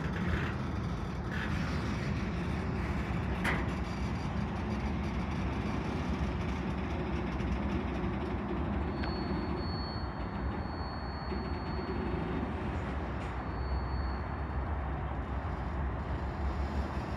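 CSX freight train rolling slowly, with a steady rumble of the cars on the rails and a few clicks in the first seconds. A thin high squeal comes in about halfway through for a few seconds, and again briefly near the end.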